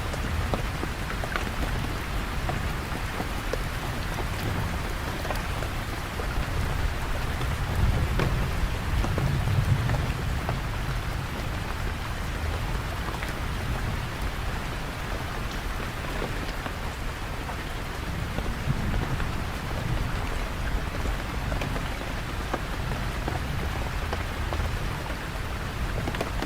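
Steady rain falling, with many small drop impacts ticking through it. A low rumble swells and fades a few times, near the start, about eight to ten seconds in, and again a little later.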